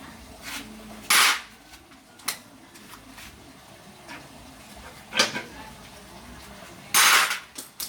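A few loud, sharp knocks at irregular intervals, the loudest about a second in and again near the end, with quieter clicks between.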